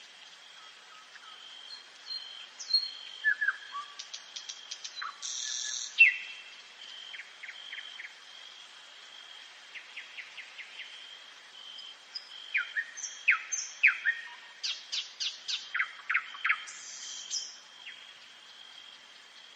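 Nightingale singing: fast runs of clicking notes, sharp down-slurred whistles and short harsh rattles, in two bursts with a lull between them, over a steady thin high tone.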